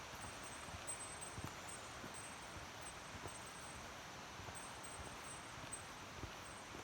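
Mountain stream running over shallows: a steady, faint rushing of water, with a few soft low knocks scattered through it.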